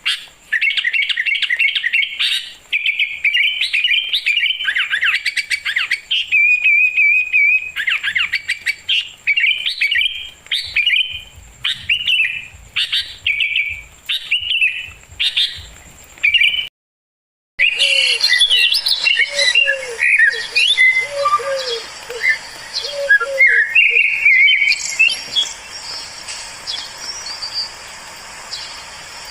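Wild songbirds chirping and trilling in quick, rapid phrases. About two-thirds of the way through the sound cuts out for a moment, then birdsong resumes over a steady hiss, with a lower short call repeated several times.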